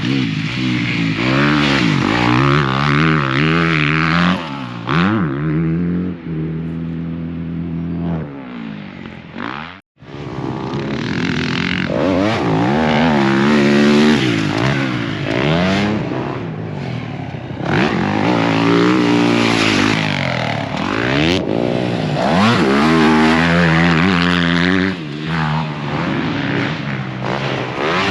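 Motocross bike engine being ridden hard, its pitch climbing and falling over and over with throttle and gear changes. The sound drops out briefly about ten seconds in.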